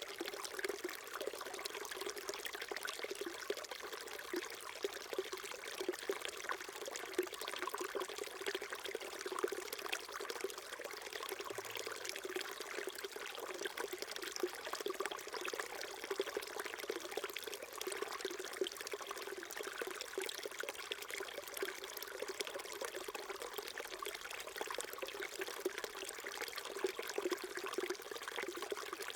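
Small mountain stream trickling and burbling steadily over stones.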